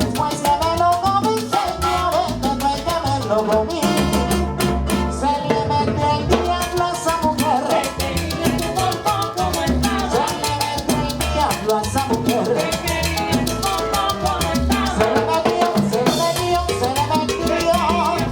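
Live salsa band playing: piano, bass, timbal, congas and trombones together, over a steady percussion beat.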